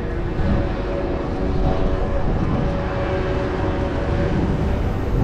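Steady wind rumble on the microphone of a moving bicycle, mixed with the hum of city traffic.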